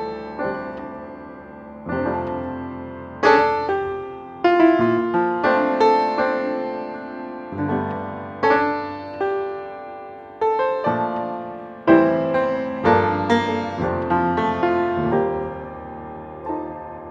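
Background piano music: a slow melody of struck notes that ring and fade, with chords underneath.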